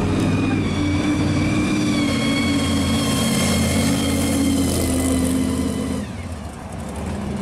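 Supercharged V8 of a 1970 Camaro pro street car running as the car rolls by at low speed: a low engine rumble with a steady high supercharger whine on top. About six seconds in the sound drops and the whine slides down in pitch as the car pulls away.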